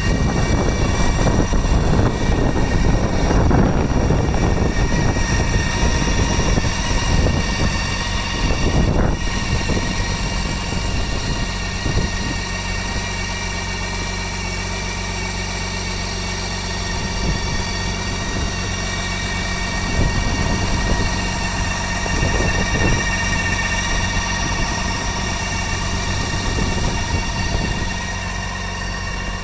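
A motorcycle engine running, somewhat louder and rougher for the first several seconds, then settling into a steady idle.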